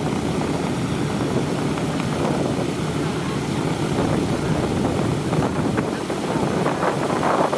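Radial piston engines of a WWII four-engine bomber (B-17G or B-24J) running steadily after start-up.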